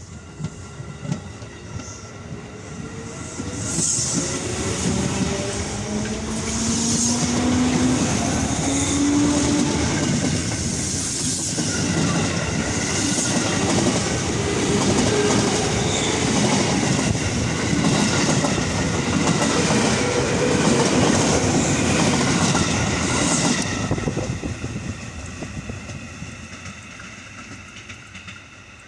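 A train passing close by, its wheels clattering over the rails. The noise builds over the first few seconds, stays loud for about twenty seconds, then fades away near the end.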